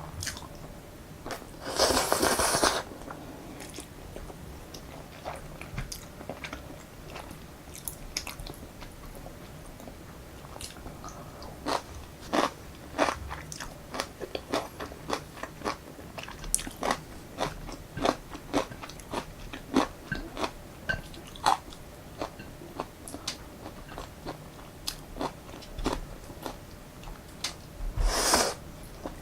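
Close-miked eating of truffle-oil Jjapaghetti noodles: a steady run of wet chewing and mouth clicks, with two short, louder noodle slurps, one about two seconds in and one near the end.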